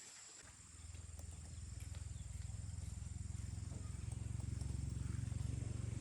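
A small engine comes in about half a second in and runs with an even low pulsing, growing steadily louder.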